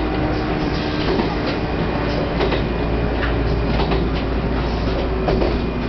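Electric railcar running along single track, heard from inside the cab: a steady rumble of wheels on rail, with sharp clicks every second or so as the wheels pass over rail joints.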